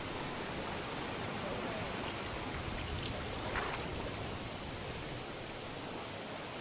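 Steady, even rushing noise, like running water or wind, with a faint steady high whine above it and a brief faint sound about three and a half seconds in.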